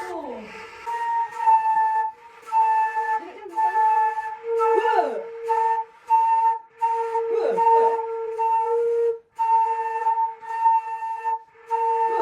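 Daegeum, the Korean bamboo transverse flute, playing a slow melody of long held notes broken by short pauses, with several sliding pitch bends.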